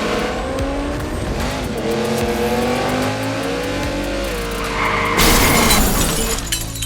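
Race car engines revving, their pitch rising and falling, with tire squeal. About five seconds in, a sudden loud noisy burst lasts under a second.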